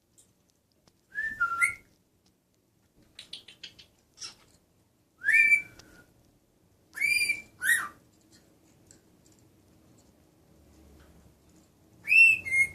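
A pet bird giving short whistled calls with bends in pitch, in four groups with pauses between, and a few soft clicks in the pause near the middle.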